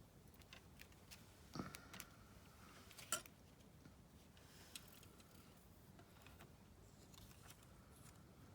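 Near silence: room tone with a few faint light taps and clicks, the clearest about a second and a half in and about three seconds in.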